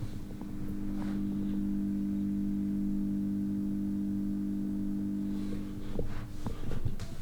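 Thin round LED ceiling light giving off an annoying steady electrical buzz, which cuts off about six seconds in. A few short clicks and knocks follow.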